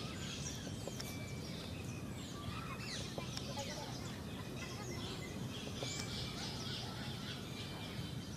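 Wild birds chirping and singing, many short high chirps and sliding whistles overlapping, over a steady low background rumble.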